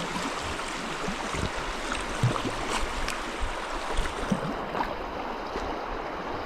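River water flowing and splashing around kayaks, a steady rush with scattered small splashes and drips.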